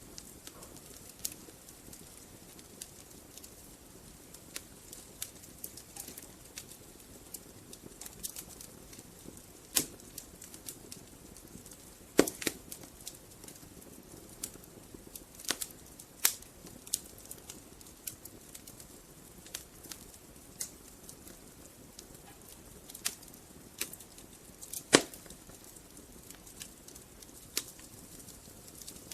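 Wood fire burning in a fireplace, crackling with scattered sharp pops at uneven intervals over a soft steady background; the two loudest pops come about twelve seconds in and near twenty-five seconds.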